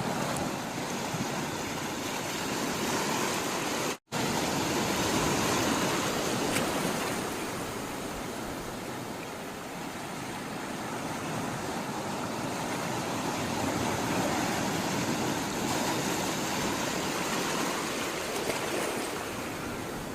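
Sea water rushing and washing in a continuous noise that swells and eases slowly, with a split-second gap of silence about four seconds in.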